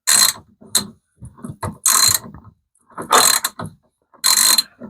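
Ratchet wrench with a 10 mm socket clicking in short bursts, five times, about once a second, as it is swung back and forth to tighten a screw.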